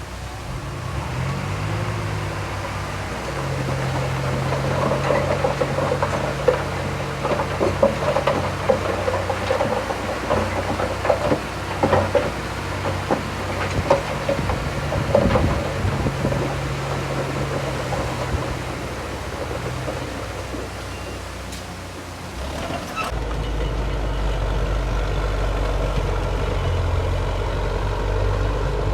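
Diesel engine of heavy earthmoving machinery running, with irregular metallic clanking and rattling for several seconds in the middle. About three quarters of the way through, the sound changes abruptly to a lower, steady engine hum.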